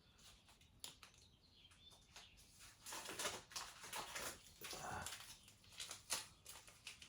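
Faint handling noises: rustling and scraping, busiest in the middle, with a few light clicks.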